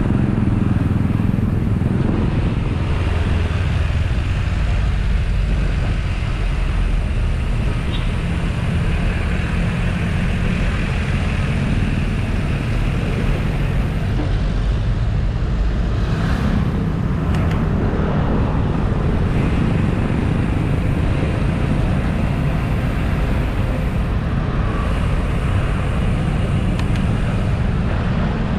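Steady road and traffic noise heard while riding along a road, a dense low rumble throughout.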